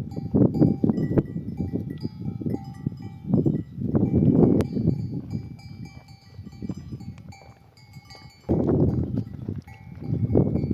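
Bells on a flock of sheep and goats clinking and ringing irregularly, over bouts of low rushing noise that fade away for a couple of seconds about two-thirds of the way through and then come back abruptly.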